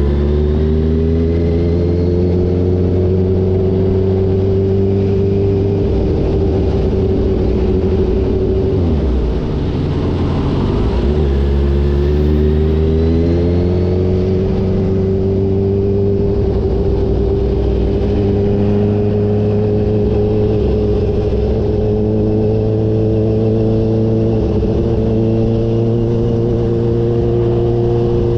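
Kawasaki H2 motorcycle engine running steadily under way. About nine seconds in the engine note drops briefly, then climbs back up over a few seconds and settles into a steady cruise.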